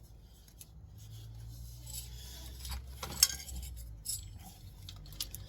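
Small handling sounds of a rag wiping and metal parts clicking against each other, with one sharp click about three seconds in.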